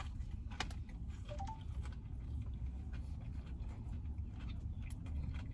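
Biting into and chewing a crispy fried chicken sandwich: a few soft crunches and crackles over a steady low hum.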